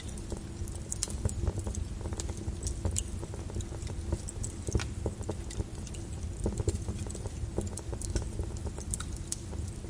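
Lava flow crackling: irregular sharp clicks and cracks over a steady low rumble.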